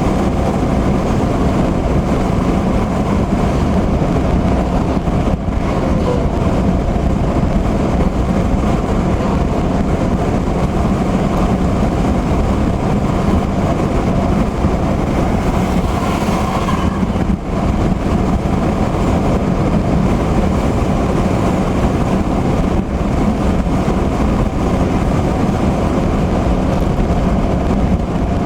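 A car driving at highway speed in heavy rain: steady road and tyre noise mixed with the hiss of rain and spray. A brief louder hiss comes about sixteen seconds in.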